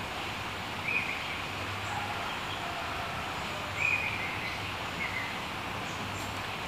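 A few short bird chirps, one about a second in and two more around four and five seconds, over a steady outdoor background hiss.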